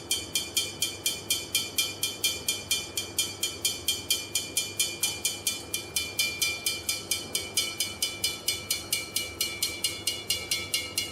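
A glass jar holding water, struck about four or five times a second with the same force, each tap giving a ringing 'ping'. Water is being poured in to add mass, so the note gradually falls.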